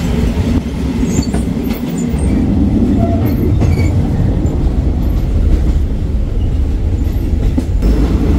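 Passenger train running at speed, heard from inside the carriages with the doors open: a steady deep rumble of wheels on the rails and rattling carriages.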